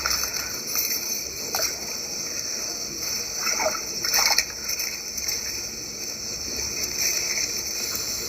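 A hooked bass splashing at the water's surface as it is landed, with a few short splashes in the first half.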